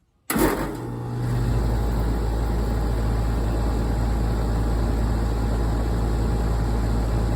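2004 Goodman CLJ 4-ton air conditioner condensing unit starting up: it kicks on suddenly about a third of a second in as its Copeland scroll compressor starts. The sound builds for about a second, then settles into a steady running hum.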